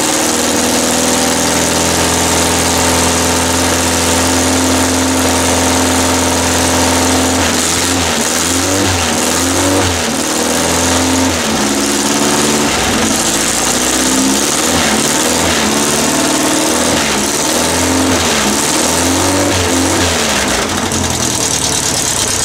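Air-cooled VW 1600 dual-port flat-four engine running on a test stand. It runs steady at first, then from about eight seconds in its revs rise and fall unevenly instead of holding an even idle.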